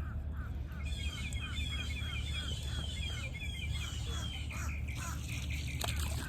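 Birds calling over and over in a steady rhythm, about two short sliding chirps a second, over a steady low rumble. There are a few sharp knocks near the end.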